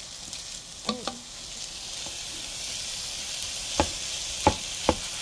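Fried rice with vegetables and egg sizzling in a hot pot while a wooden spoon stirs it; the sizzle grows louder about two seconds in. The spoon knocks sharply against the pot a few times, three of them in the second half.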